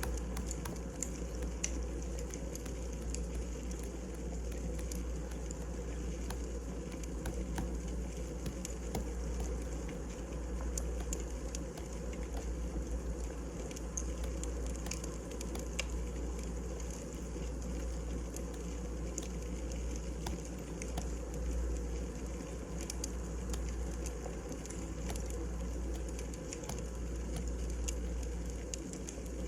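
Burning firewood crackling: a steady low rumble under frequent small, irregular pops.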